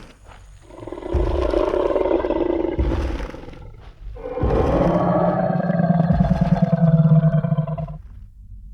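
Designed Tyrannosaurus rex roar sound effect: two long roars, the first starting about a second in and lasting about three seconds, the second following at once and running about four seconds over a deep, steady growl.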